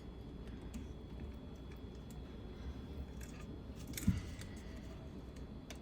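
Faint scattered light clicks of multimeter probes and leads being handled, over a low steady hum, with one short louder sound about four seconds in.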